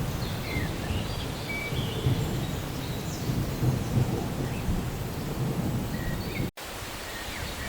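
Thunder rumbling low and continuously over steady rain hiss, slowly easing off. The sound drops out for an instant about six and a half seconds in, then carries on quieter.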